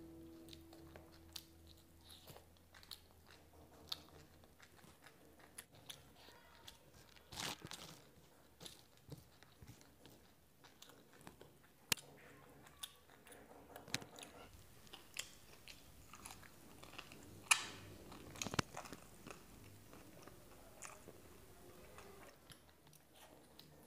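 A person chewing and crunching a mouthful of mudhi (puffed rice) with mutton curry, with irregular crisp crunches and bites, the sharpest about two-thirds of the way through.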